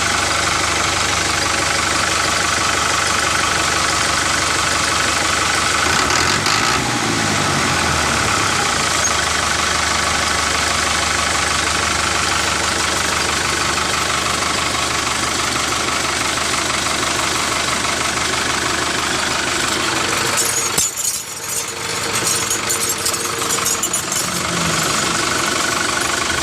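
A motor running steadily, with a shift in pitch about six to eight seconds in and a brief dip around twenty-one seconds.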